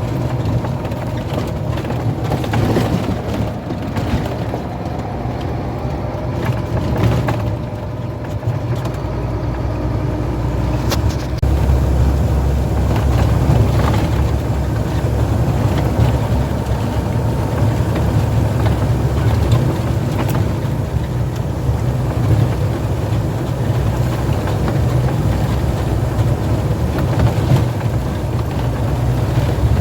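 Heavy truck driving on the road: a steady, low engine drone with road noise, growing a little louder about a third of the way in.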